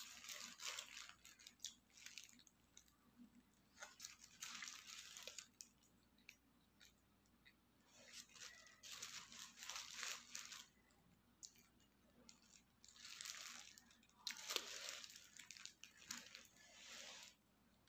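A person eating a Burger King burger close to the microphone: chewing and biting, with the burger's paper wrapper crinkling, in bursts of a second or two several times over, the loudest near the start and again near the end.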